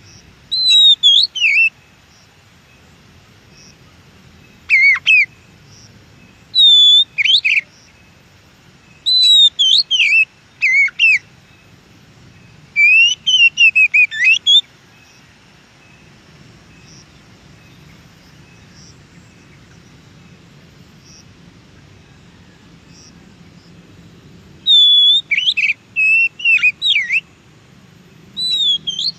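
Oriental magpie-robin (kacer) singing: loud, varied whistled phrases in short clusters a few seconds apart, with a pause of about ten seconds in the middle.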